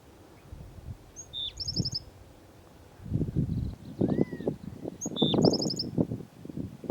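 Black-throated sparrow singing its short song twice: a clear note followed by a fast high trill. From about three seconds in, louder crunching and rustling, like footsteps on dry ground, covers the low end.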